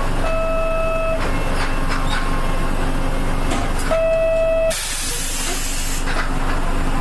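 Nissan Diesel UA city bus's diesel engine idling at a stop, heard from inside the bus. Two single-pitched electronic beeps about a second long sound a few seconds apart, and just after the second one there is a burst of hissing compressed air lasting about a second.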